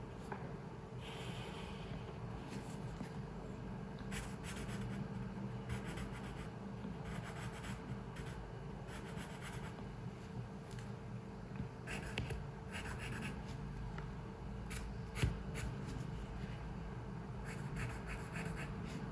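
Pencil drawing on paper: groups of quick scratchy strokes that start and stop, over a steady low hum of room noise. There is a single knock about fifteen seconds in.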